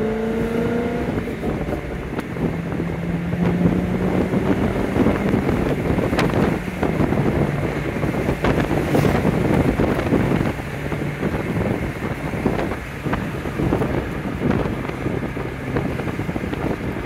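2007 Corvette's V8 engine pulling the car down the road, its note rising briefly at the start and then holding steady at moderate revs, heard from the cockpit with wind and tyre noise over it.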